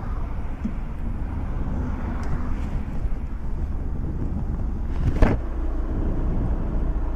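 Low motor and road rumble of a motorcycle, with one sharp knock about five seconds in: a car bumping into the back of the stopped motorcycle.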